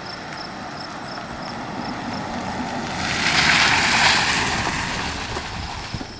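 A car passing, its road and tyre noise swelling to a peak about four seconds in and then fading, over steady background noise with a faint, regular high ticking.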